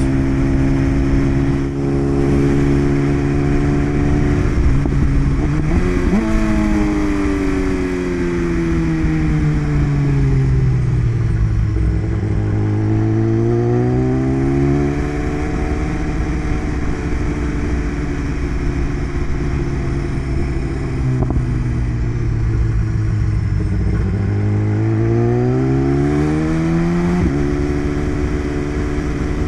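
BMW S1000RR inline-four engine heard from the rider's seat while riding, under a steady rush of wind. The engine pitch jumps up sharply about six seconds in and then falls away over several seconds. It climbs again and holds steady for a while, then near the end climbs once more and drops suddenly.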